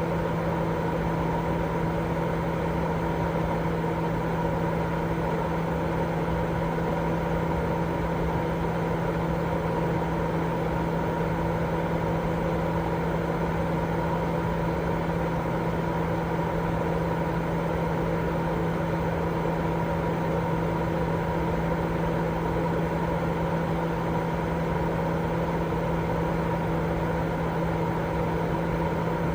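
Continuous white noise sleep sound: a steady, even rush of noise with a constant low hum and fainter higher tones running through it.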